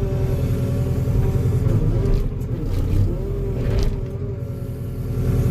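Diesel engine of compact earthmoving equipment running steadily under the operator's seat, with a wavering hydraulic whine as the machine works. A few short sharp cracks come through midway.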